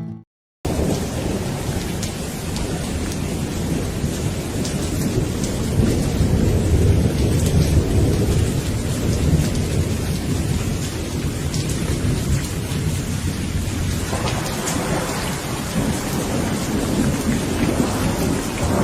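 Steady rain falling, with thunder rumbling low and continuously underneath and swelling about a third of the way in. The rain comes in after a brief silence at the start.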